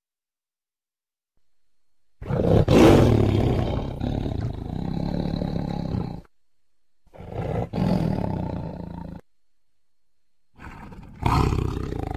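A tiger roaring three times, with silent pauses between: a long roar about two seconds in that is loudest at its start, a shorter one near the middle, and a third starting near the end.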